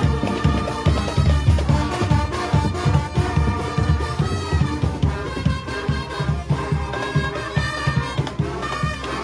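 Cape Minstrel street band playing, with brass horns carrying the tune over a steady drum beat.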